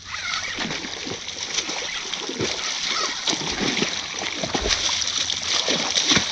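A freshly hooked northern snakehead thrashing and splashing at the water surface in a series of irregular splashes, over a steady hiss of rain.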